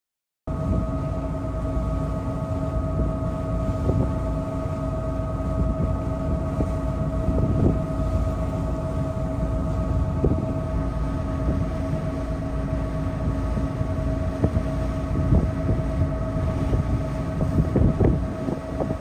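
Steady low rumble of a moving vehicle, with a constant mid-pitched hum over it and small knocks here and there. It starts abruptly about half a second in.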